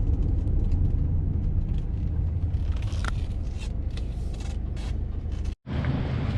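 Steady low rumble of motion noise on an action camera, road and wind noise from a moving vehicle, with scattered light clicks and rattles. It breaks off in a brief dropout about five and a half seconds in, then resumes.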